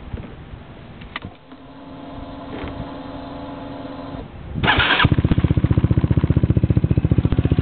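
Yamaha Zuma scooter engine with a stainless steel Yoshimura exhaust being started: a click and a steady hum for a few seconds, a short burst of cranking, then the engine catches about five seconds in and settles into an even, pulsing idle, deep for a scooter.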